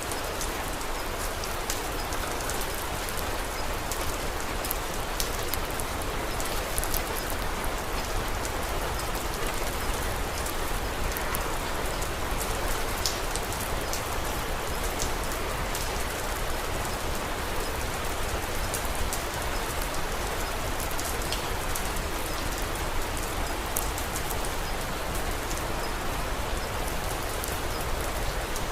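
Steady rain falling on a surface, an even hiss with many small sharp ticks of drops scattered through it.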